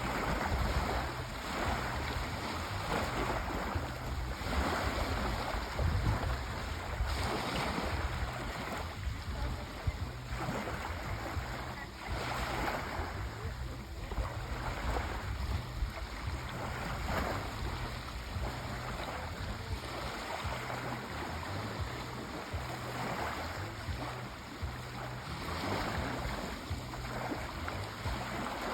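Sea waves rushing and washing in a steady rhythm, with a swell every couple of seconds.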